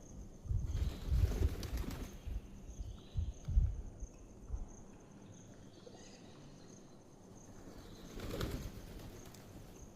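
Birds' wings flapping in flurries: two in the first few seconds, then a quieter stretch, then another flurry near the end.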